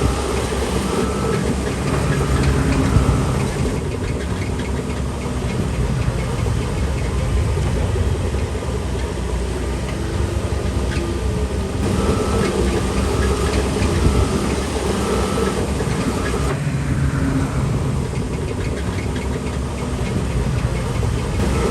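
Shantui DH17C3 bulldozer's diesel engine running under working load. Its note shifts several times as the machine pushes and changes direction, over a constant rattle of tracks and stone.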